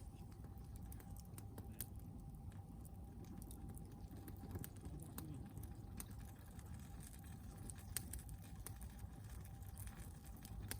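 Log fire burning with irregular crackles and pops over a low rumble of the flames; a few louder snaps stand out.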